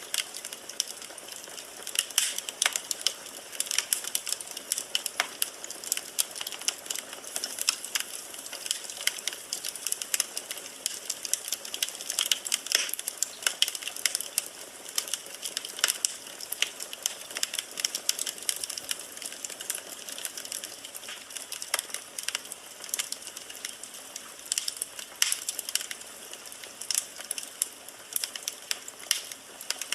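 Firewood burning in a fireplace: irregular sharp crackles and pops over a steady soft hiss.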